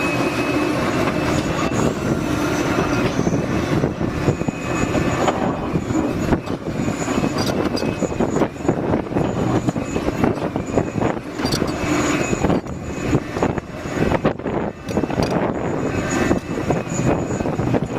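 Liebherr excavator's diesel engine running steadily under load, with irregular knocks and clatter through the middle stretch.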